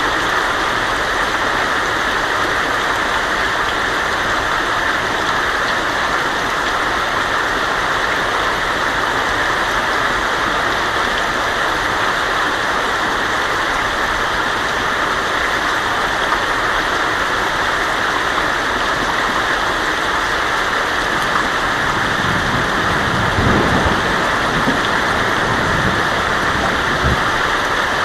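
Heavy rain on a tin roof, a dense steady patter. A low rumble of thunder rolls in near the end.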